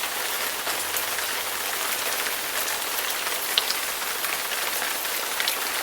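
Heavy rain falling steadily on a surface, a dense even hiss with scattered individual drop impacts ticking through it.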